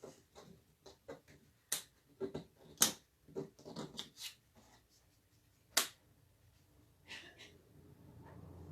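Scattered clicks, taps and light knocks of small objects being handled and set down, with a few sharp clicks a couple of seconds in and again near six seconds.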